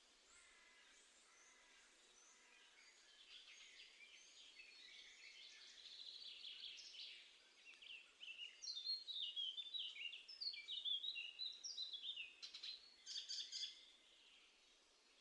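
Small songbirds singing: faint high phrases at first, then a run of quick, high notes stepping downward, loudest over the second half and stopping a little before the end.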